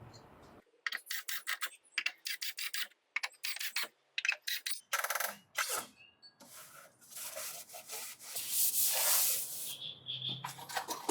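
Hand sanding during wall renovation: a run of short, quick back-and-forth strokes, then a longer unbroken stretch of rubbing near the end.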